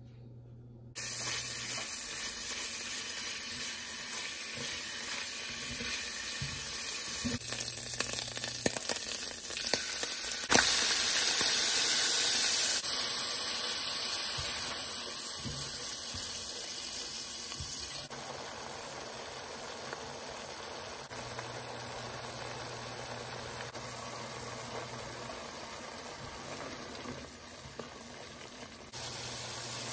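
Hot oil sizzling in a non-stick pan as ginger-garlic paste and then an onion-tomato masala fry, with a silicone spatula stirring and scraping through it and a few sharp clicks. The sizzle starts suddenly about a second in, is loudest a little before the middle, and shifts in level abruptly a few times.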